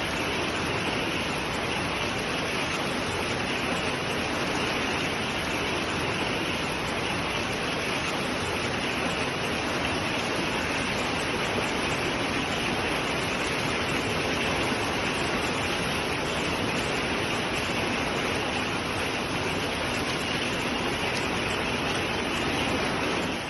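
Steady, dense rushing of a heavy storm downpour, with no let-up; it cuts off suddenly at the end.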